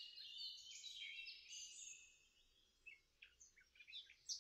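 Faint songbird song: a run of high, steady whistled notes at changing pitches for about two seconds, then scattered short chirps.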